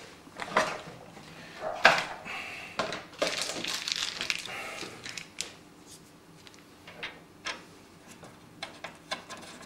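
Handling noise from cables being tucked away inside a PC case: scattered clicks and knocks, the loudest about two seconds in, with a stretch of rustling in the middle and lighter ticks near the end.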